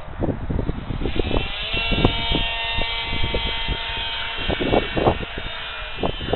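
Electric brushless motor and 6x5 propeller of an RC foam flying wing coming on about a second in and running with a steady whine, over gusty wind buffeting the microphone.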